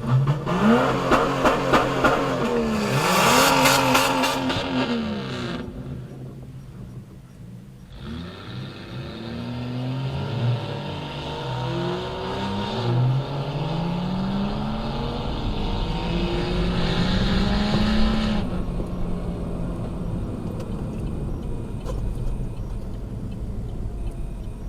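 Lifted Jeeps' 4.0 straight-six engines accelerating from a stop, the engine pitch climbing and dropping back with each gear change. One run fills the first five seconds or so, then a second, longer one starts about eight seconds in and cuts off sharply around eighteen seconds.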